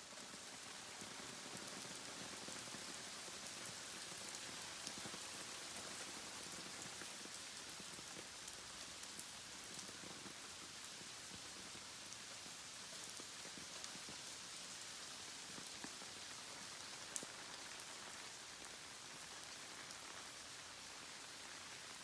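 Steady rain falling: a faint, even hiss with occasional single drops ticking close by.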